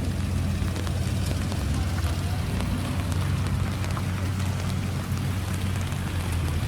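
Classic Japanese car's engine idling steadily: an even low hum with a crackly, grainy edge.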